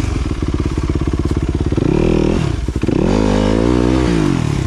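Dirt bike engine revving up and dropping back twice as the throttle is worked while riding: a short rev about two seconds in, then a longer one from about three seconds that climbs and falls away. A brief knock comes between the two revs.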